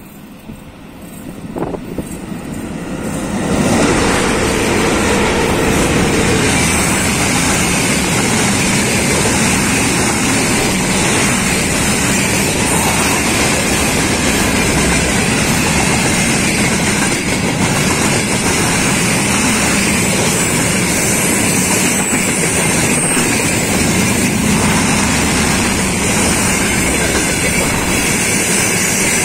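A VL80S electric locomotive hauling a freight train comes closer, growing louder over the first three or four seconds as it passes. Then comes the steady, loud noise of freight wagons' wheels running along the rails as the train goes by.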